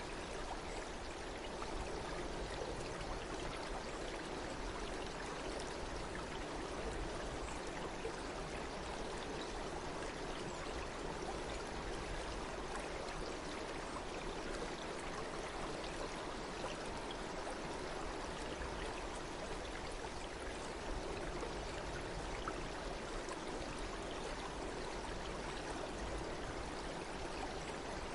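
Flowing water of a stream: a steady, even rushing and babbling.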